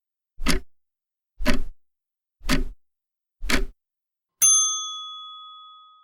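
Countdown timer sound effect: a clock ticks four times, once a second, then a bell dings once and rings out.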